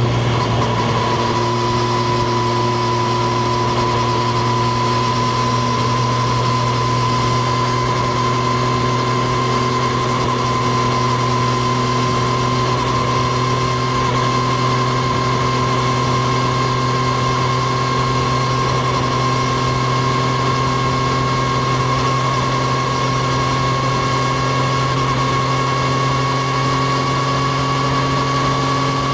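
Triumph Street Triple RS 765 cc inline-three engine running at steady revs under way, its pitch holding level, with wind and road noise over it.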